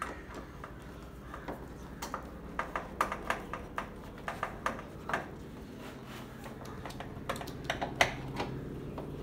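Irregular light clicks and taps of small hard objects being handled, several a second at times, with a sharper knock near the end.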